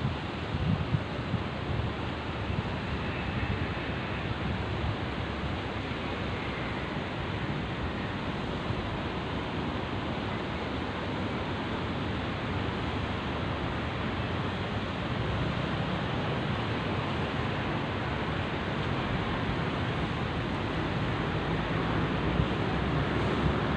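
Sea surf washing steadily on the shore, mixed with wind buffeting the microphone in low gusts.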